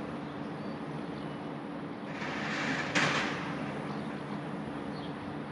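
Double-deck electric regional train running slowly with a steady hum, and a burst of hissing that builds from about two seconds in, peaks sharply about a second later, then fades.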